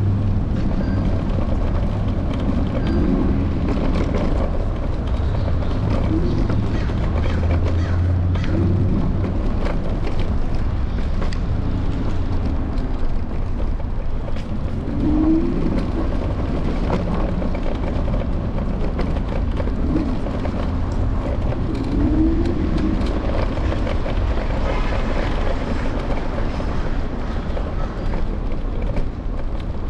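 City street traffic noise picked up by a camera on an electric scooter's handlebars: a steady rumble with a low hum early on and short swells of passing vehicles now and then.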